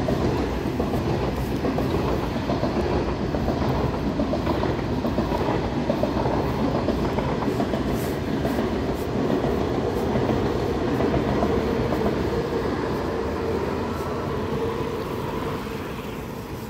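Electric commuter train (jeoncheol) passing close by on its rails, a loud steady rumble of wheels and cars that begins to fade near the end.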